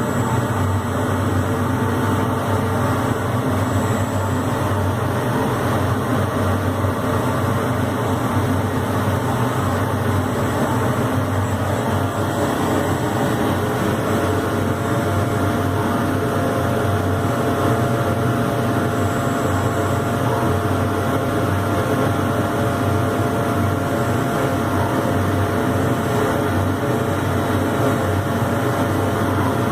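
Primalinea 1310 CO2 laser cutter running while cutting and engraving MDF: a steady machine hum with several steady tones, unchanged throughout.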